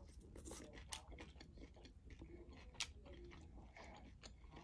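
Faint close-miked chewing of seafood in butter sauce, with scattered short wet mouth clicks.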